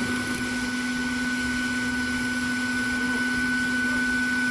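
Bee-removal vacuum running steadily as it sucks up honey bees: a rushing air noise with a steady low hum and a higher steady whine.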